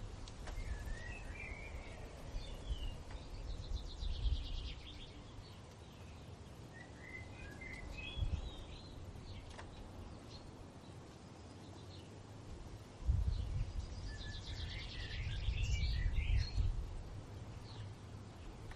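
Songbirds singing in three bouts of short twittering phrases, with a fast trill about four seconds in and again near the end. Under them runs a low rumble of wind that comes in gusts, strongest in the last few seconds.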